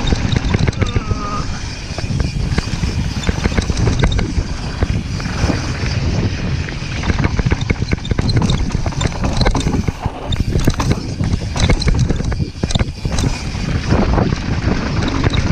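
A moving vehicle rumbling loudly and steadily, with rattles and clicks and wind buffeting the microphone.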